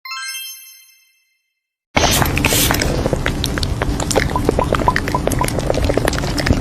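A single bright chime that rings and fades within about a second. After a second of silence, a busy noisy background starts, full of short clicks and brief chirps.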